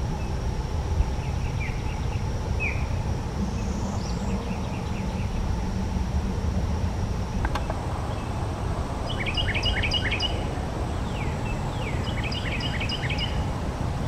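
Wild birds calling over a steady low outdoor rumble: a few short chirps in the first few seconds, then two quick runs of rapid, falling notes about nine and twelve seconds in. A thin, steady high tone sits faintly behind them.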